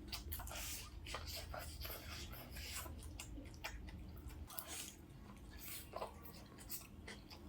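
Close-miked chewing and wet mouth sounds of someone eating a noodle burger: irregular soft squishes and crackles, over a steady low hum that drops away about halfway through.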